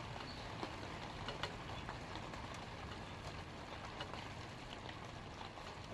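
Light rain falling steadily on leaves, a continuous hiss with scattered individual drops ticking through it.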